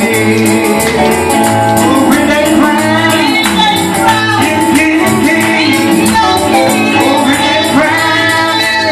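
Live gospel worship music: voices singing over a band, with a tambourine-like percussion keeping a quick, steady beat.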